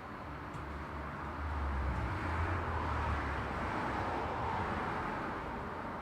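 Road traffic: a vehicle passes by, its engine and tyre noise swelling about one to two seconds in and fading again toward the end.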